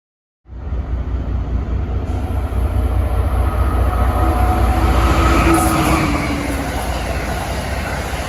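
A train running past close by, a heavy low rumble that cuts in half a second in, builds to its loudest about five seconds in, then eases slightly.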